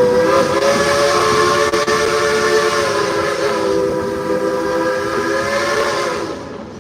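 Steam whistle of Dollywood Express locomotive No. 192, a 1943-built engine, blowing one long blast of about six seconds: a steady chord of several tones over a hiss of steam, fading out near the end.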